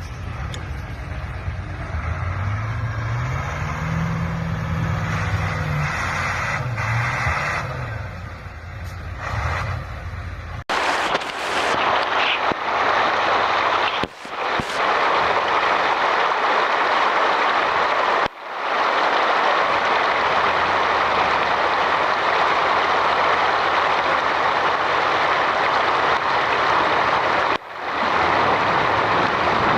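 Heavy truck engine revving up and down. About ten seconds in it cuts to a loud, steady roar that dips out briefly three times.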